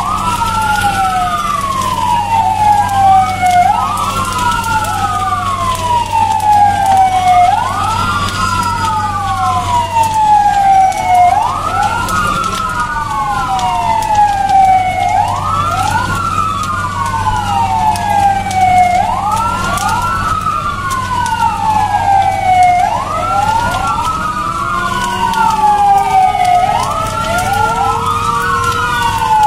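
Two or more vehicle sirens wailing together, out of step, each rising quickly and then falling slowly, repeating every three seconds or so. Under them a steady low engine hum stops about four-fifths of the way through, and near the end a lower tone slowly rises.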